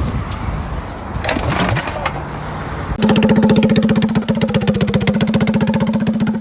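Mini bike's 212 Predator single-cylinder engine running steadily with a fast, even firing beat, coming in abruptly about three seconds in after a stretch of wind noise and a few knocks.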